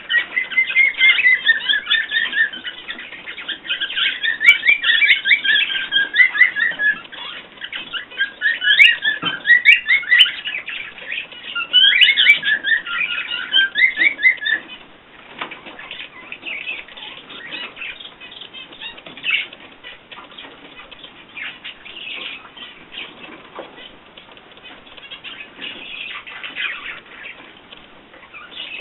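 Small cage birds chattering in quick, dense high chirps for about fifteen seconds, then softer scratchy rustling with a few faint chirps.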